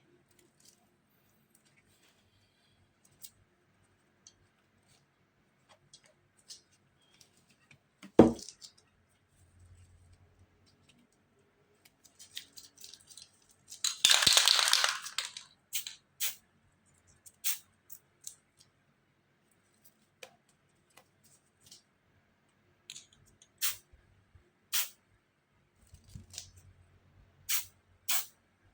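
Scattered short clicks and taps from handling spray-art tools, with one heavy knock about eight seconds in. Midway, an aerosol spray-paint can hisses in a single burst of about a second and a half.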